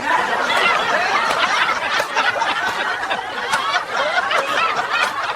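Several people laughing together at once, a steady overlapping burst of laughter.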